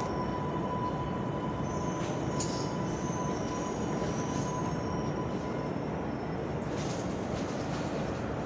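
Subway train running in the station: a steady rumbling noise with a faint, high wheel squeal.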